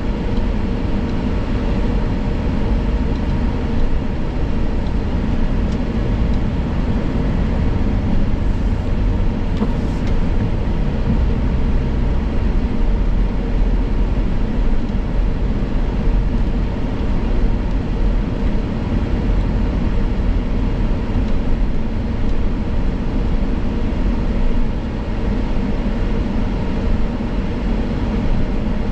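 Steady low rumble of a car moving slowly, heard from inside the cabin, with no break or change.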